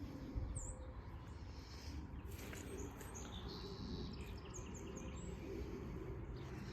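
Small birds chirping, a quick run of short, high chirps through the middle, over a steady low rumble.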